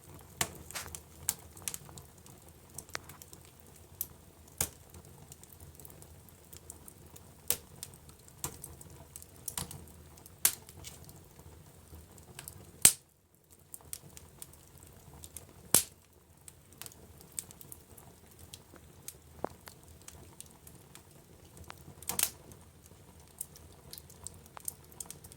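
Wood fire in a fireplace crackling, with irregular sharp pops over a low steady rumble; the loudest pop comes about halfway through, and the sound cuts out for a moment just after it.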